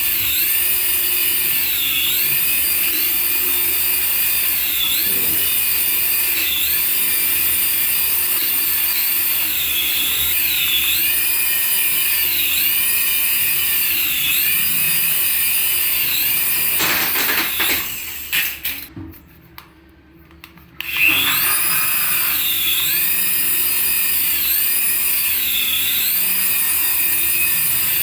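Battery-powered remote-control toy running with a high-pitched electric whine that dips in pitch and recovers every couple of seconds. It cuts out about eighteen seconds in and starts again about three seconds later.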